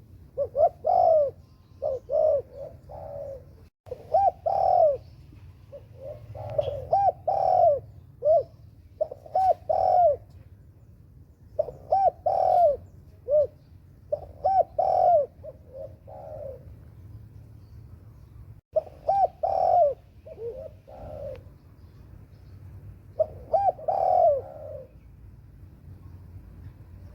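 A dove or pigeon cooing: repeated phrases of short, arched notes, a new phrase every couple of seconds.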